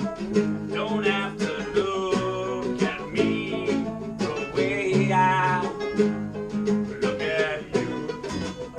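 Live bluegrass band playing an instrumental passage: rapid plucked banjo and guitar under a wavering lead melody line that comes in several phrases.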